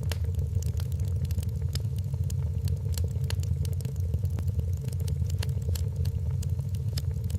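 Wood fire in a fireplace crackling: irregular sharp pops and snaps over a steady low rumble of burning logs.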